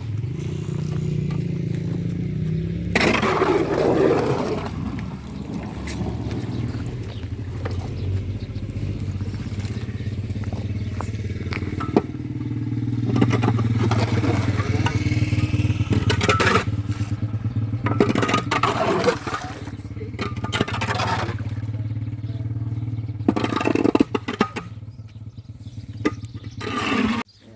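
A motor running steadily with a low hum, with repeated scraping and clattering over it.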